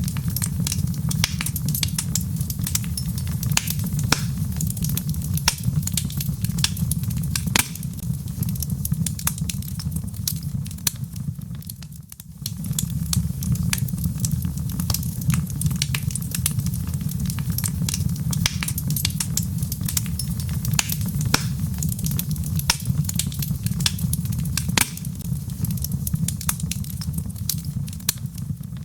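Wood fire burning in a fireplace: a steady low rumble under dense, irregular crackles and sharp pops. The sound briefly dips about twelve seconds in.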